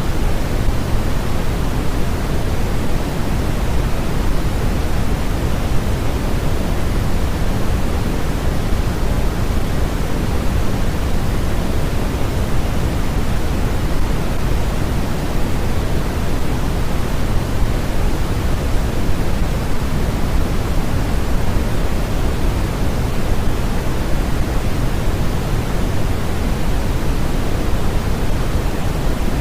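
Generated white noise for sleep or study: a steady, even hiss that never changes, with most of its weight low and gently thinning towards the treble.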